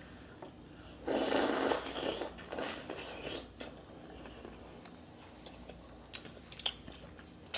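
Eating a seafood boil: a rustling, crackling stretch of handling the shellfish and its wrapping, loudest at the start, then small sharp clicks and smacks of chewing.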